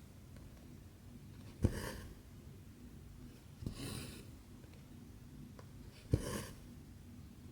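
Cross-stitch needle and cotton thread being drawn through 14-count fabric: three strokes about two seconds apart, each a sharp tick followed by a short rasping swish of thread.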